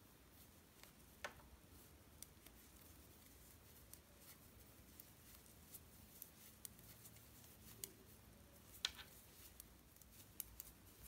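Near silence with faint, irregular clicks of two knitting needles as stitches are purled across a row, a little louder once about a second in and again near the end.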